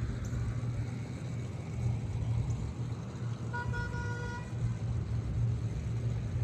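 Steady low outdoor rumble with a vehicle horn sounding once for about a second midway.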